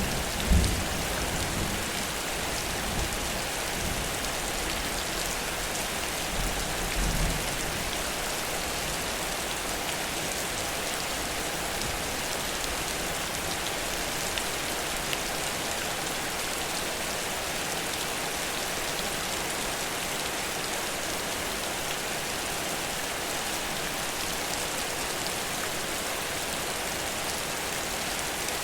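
Heavy rain falling steadily in a downpour, an even hiss of rain on surfaces. Brief low rumbles come near the start and again about seven seconds in.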